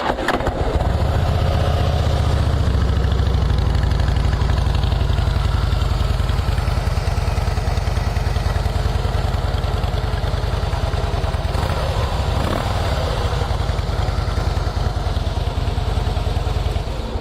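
Harley-Davidson Fatboy's 96-cubic-inch Twin Cam V-twin idling steadily through its shotgun exhaust, an even, rapid low pulse that settles in within the first second.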